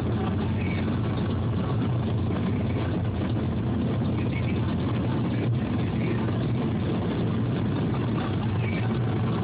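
Steady low rumble of a car driving along, with engine and road noise heard from inside the cabin.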